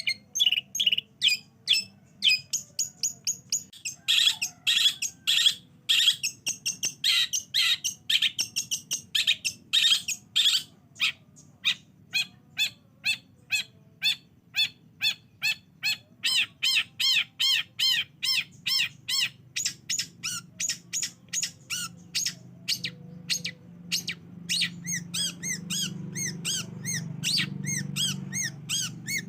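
Long-tailed shrike (cendet) singing: a fast, unbroken string of short, sharp chattering notes, about three or four a second, in changing phrases. A low hum rises under the song in the last third.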